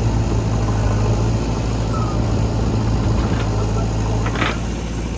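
Diesel engine of the earthmoving machinery running steadily at low revs, with a brief clatter about four and a half seconds in.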